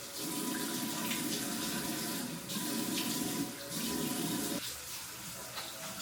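Water running from a tap into a sink, its splashing loudest in three stretches broken by two brief dips, then running more softly from about four and a half seconds in.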